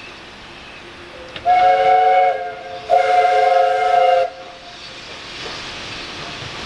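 Steam locomotive whistle giving two blasts, a shorter one then a longer one, each a chord of several steady tones, over the steady hiss and noise of the train.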